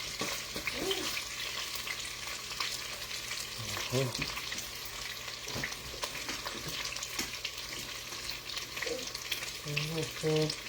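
Food frying in hot oil in a pan: a steady, dense crackling sizzle.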